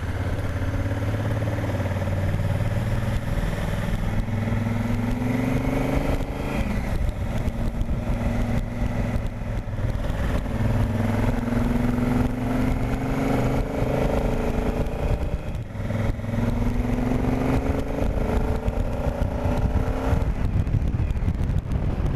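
Honda Africa Twin's parallel-twin engine pulling away and accelerating through the gears. The pitch climbs and drops back at each of several shifts.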